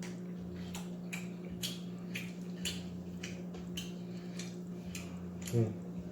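Close-up chewing and mouth sounds of someone eating, a series of short wet clicks about twice a second, over a steady low electrical hum. A brief low vocal murmur near the end.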